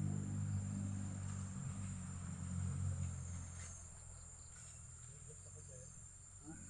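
Insects chirring steadily at a high pitch, over a low rumble that fades after about three seconds.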